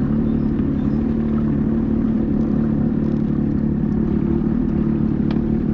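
Sea-Doo Spark Trixx personal watercraft engine running steadily at low cruising speed, a constant even drone with no revving. A brief faint high chirp near the end.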